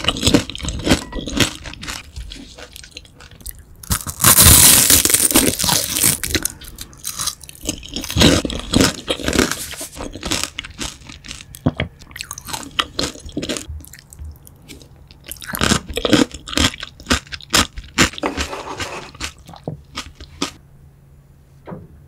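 Close-miked crunching and chewing of crispy grilled beef large intestine (tong-daechang): clusters of loud crunches as pieces are bitten and chewed, dying away a couple of seconds before the end.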